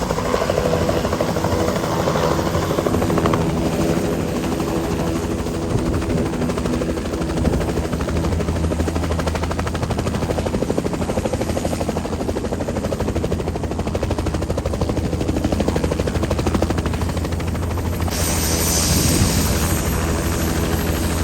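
Helicopter running, its rotor and engine giving a steady, rapid blade chop over a low drone; a higher hiss joins near the end.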